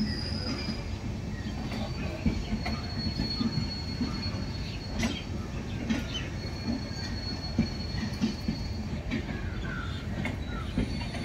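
LHB passenger coaches rolling past on the rails, with a steady rumble and irregular knocks as the wheels pass over rail joints. A thin, high wheel squeal comes and goes.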